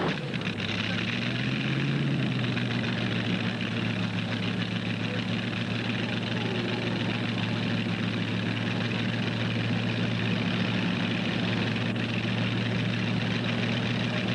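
Engine of a modified pulling tractor idling at a steady pitch.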